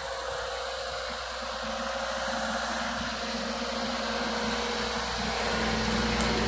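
A vehicle engine running steadily with a droning hum, growing slightly louder toward the end.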